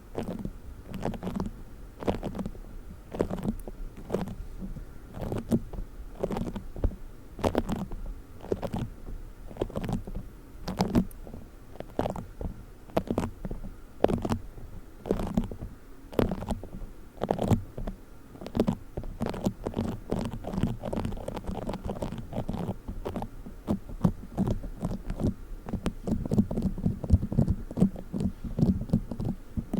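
Play foam squished and rubbed directly on the microphone: a dense, irregular run of crackles and crunches over a low rumble, several strokes a second.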